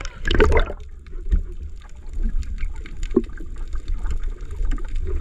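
Water splashing and sloshing, with a louder splash about half a second in over a steady low rumble.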